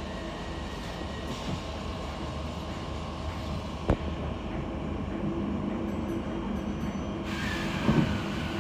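Merseyrail electric train running, heard from inside the carriage: a steady low rumble with a single sharp knock about four seconds in. A louder hiss comes in about seven seconds in, with a few knocks from the wheels near the end.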